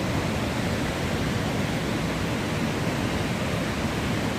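Steady rush of falling, fast-flowing water, an even hiss with no breaks.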